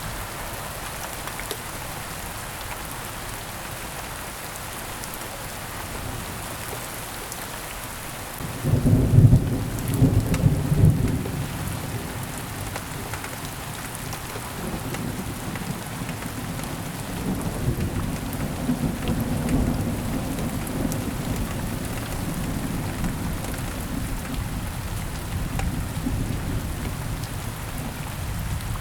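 Heavy rain falling steadily, with a sudden loud clap of thunder about a third of the way in that rolls on as a quieter low rumble through most of the rest.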